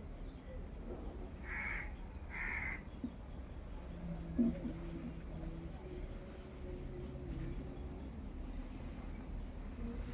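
A crow cawing twice in quick succession, about a second and a half and two and a half seconds in, over a steady high-pitched chirring of insects and a low background rumble.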